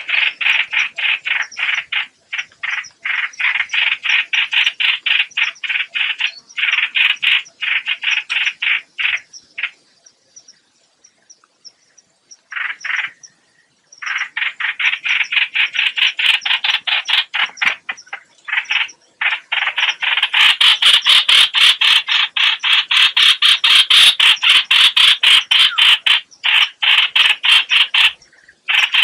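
Call of the bird known in Vietnamese as 'hoạch hoạch', played as a trapping lure: long trains of fast, harsh repeated notes, broken by a pause in the middle and louder from about two-thirds through.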